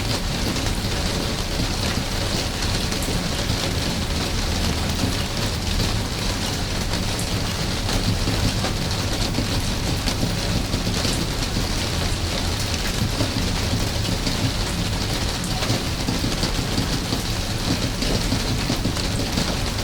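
Steady rain falling: an even hiss with a low rumble underneath and scattered individual drop ticks.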